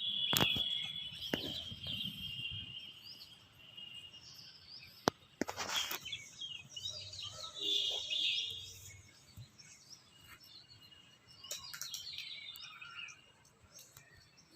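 Small birds chirping and calling, several voices overlapping in short high chirps and whistles, with a few sharp clicks, the loudest about five seconds in.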